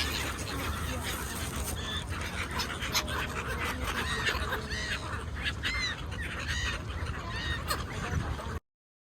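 A flock of gulls calling, many short arched cries overlapping over a steady low background rumble. The sound stops abruptly near the end.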